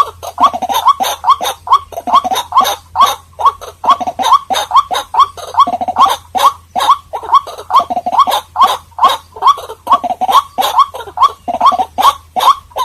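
White-breasted waterhen calling: a long, loud run of repeated notes, about three a second, each rising in pitch.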